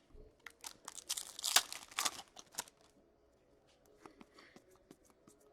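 Foil wrapper of a hockey card pack tearing and crinkling, a run of sharp crackles over the first three seconds, then fainter scattered ticks as the cards are handled.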